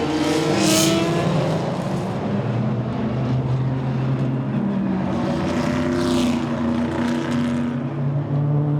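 Corvette C5-R's 7-litre V8 race engine running at fairly steady revs, its pitch rising slightly over the first two seconds, with brief hissing rushes about a second in and again near six seconds.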